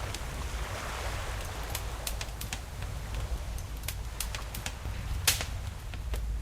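Wood fire crackling with irregular sharp pops, one louder pop about five seconds in, over the steady low rumble and wash of ocean waves.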